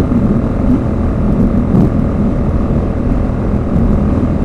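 Motorcycle engine running steadily at motorway cruising speed, its throttle held by a clip-on cruise-control lock, under a steady rumble of wind and road noise.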